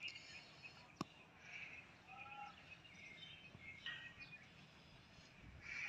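Near silence outdoors, with faint bird chirps now and then and one sharp click about a second in.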